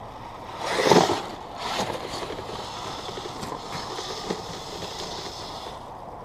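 RC tracked snowcat (Kyosho Blizzard) with Traxxas 380 electric motors driving over snow. There is a loud surge of noise about a second in and a smaller one just after, then steady running with a faint high whine.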